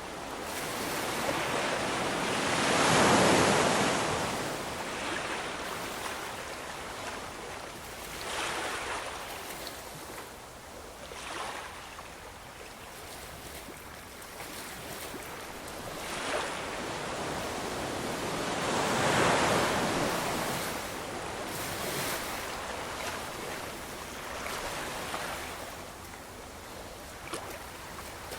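Ocean waves breaking and washing in, a rushing noise that swells and fades; two larger waves crash about three seconds in and again near the middle, with smaller ones between.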